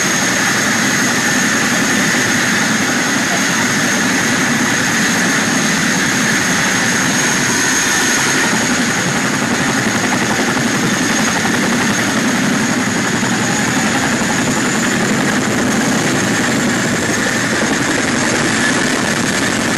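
Boeing CH-47 Chinook helicopter running on its twin turboshaft engines: a loud, steady rotor and engine noise with a high, level turbine whine over it.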